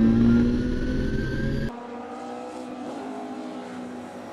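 Nissan R32 Skyline's RB26 twin-turbo straight-six pulling hard under acceleration, heard loud from inside the cabin with its pitch rising steadily. About a second and a half in, the sound cuts abruptly to a quieter, more distant engine note of the car driving past.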